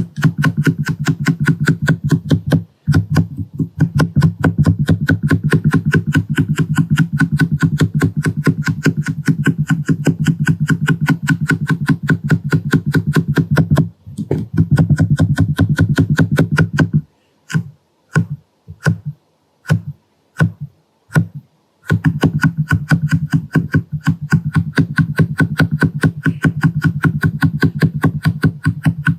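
Rapid, steady tapping of a face-stamping tool on the microphone, layered into a fast drumming patter. It breaks off about two-thirds of the way in for a few separate taps, then resumes.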